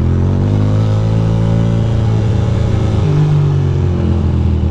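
Ducati Monster 821's V-twin engine accelerating under the rider, its pitch climbing through the first second. The pitch dips about three seconds in, then climbs again.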